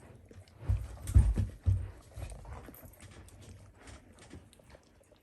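Dogs and puppies moving about: a few dull thumps about a second in, then soft rustling and small clicks.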